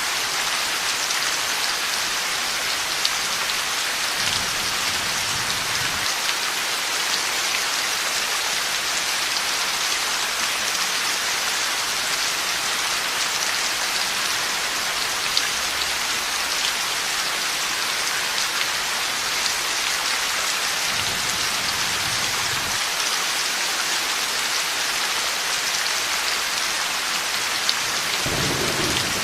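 Heavy rain falling steadily, with low rumbles of thunder about four seconds in, again about two-thirds through, and once more near the end.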